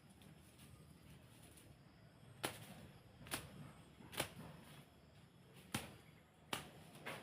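Six sharp strikes of a hand tool chopping into weeds and soil during land clearing, starting about two and a half seconds in and coming about a second apart.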